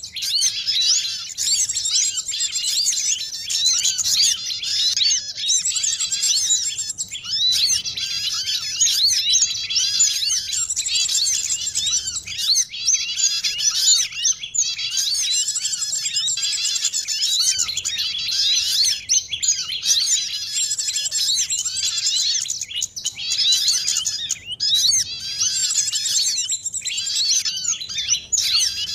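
Dense, noisy chorus of many small songbirds chirping and twittering at once, overlapping high notes without a break. It is the sound of a mixed bird-lure recording made to draw small birds such as sunbirds, white-eyes and prenjak down.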